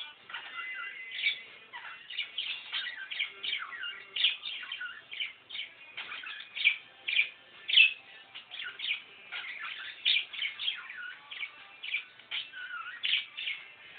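Pet budgerigar warbling: a fast, continuous stream of chirps, squeaks and short twittering glides.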